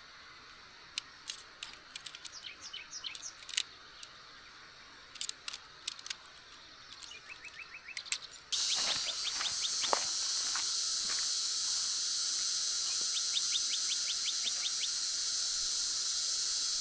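Wild birds chirping with short, quick trills over a quiet outdoor background. About halfway through, a steady, loud high-pitched hiss cuts in abruptly, and the birds go on trilling over it.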